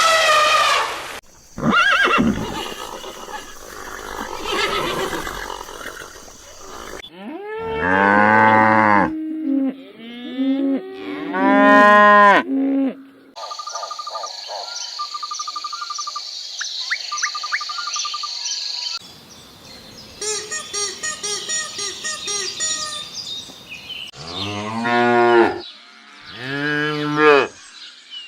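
Cattle mooing, several long low calls, alternating with short stretches of other animal sounds.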